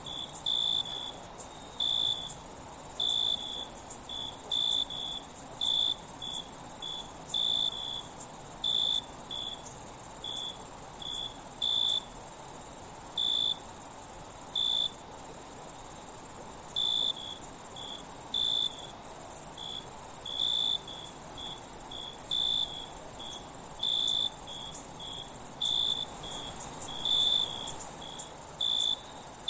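A night chorus of crickets: short chirps repeating about once or twice a second over a continuous high-pitched insect trill, with a brief break in the chirping about halfway through. The whole sound cuts out for an instant a few times.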